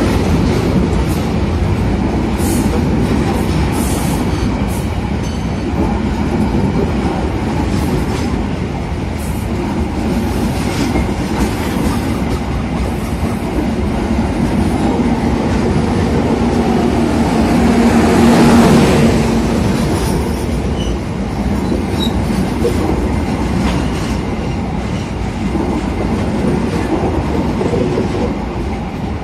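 Passenger train carriages rolling past at close range: a continuous rumble of steel wheels on the rails, with clicks in the first few seconds and a low hum that swells about two-thirds of the way through.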